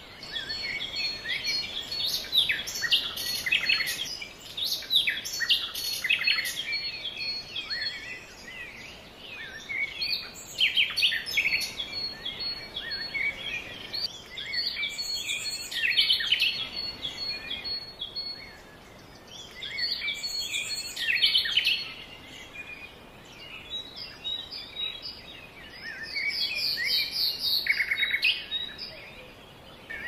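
Several birds chirping and singing in bursts of quick, high chirps, with short lulls between the bursts.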